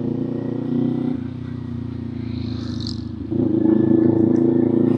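Kawasaki Z400's parallel-twin engine and exhaust running at steady revs while riding, growing louder as the throttle opens about three seconds in.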